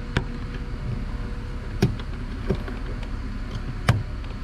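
Plastic door-panel retaining clip being worked off by hand, giving four short sharp clicks spread over a few seconds as it resists coming free.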